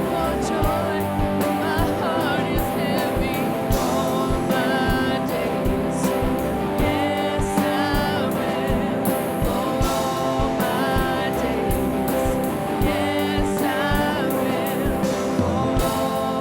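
Live worship band playing a song with singing voices, guitar and drums keeping a steady beat.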